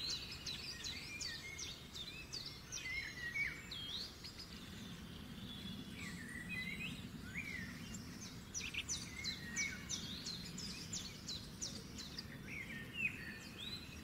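Several birds chirping and singing at once: quick trills and short whistles rising and falling, thickest near the start and again in the second half, over a faint low steady hum.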